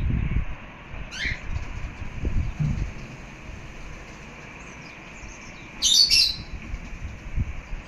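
Birds calling: a short call falling in pitch about a second in, then a louder double call about six seconds in, over a faint steady background of high chirping. A low rumbling noise fades out over the first second or so.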